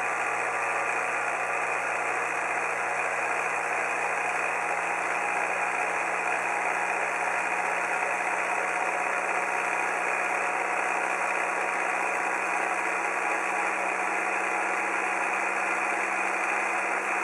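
Miniature 90-degree Vee-twin hot air engine, with cast iron pistons in an aluminium block and its crankshaft on ball races, running steadily: an even mechanical whirr of many steady tones.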